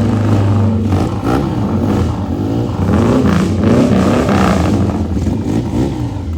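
Classic Rickman motorcycle's engine running loud, its pitch rising and falling again and again as it is revved.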